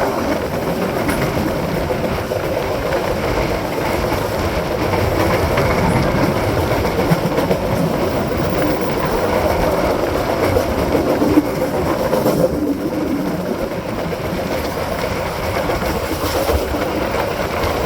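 Train running at speed: a steady rumble of wheels on the rails with clickety-clack and rushing wind.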